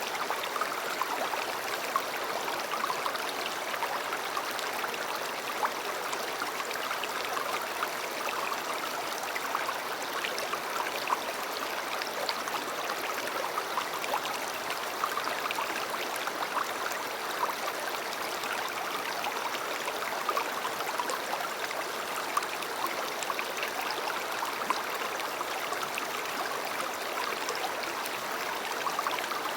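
River water flowing steadily over stones, a continuous rush of babbling and small splashes.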